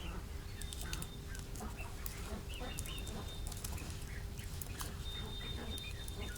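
Poultry calling: many short overlapping calls, like a flock of ducks and chickens, over a faint steady hum.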